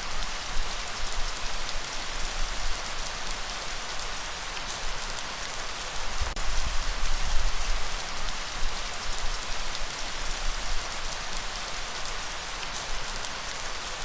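Steady rain falling: an even hiss of drops, with a few single drops ticking out now and then.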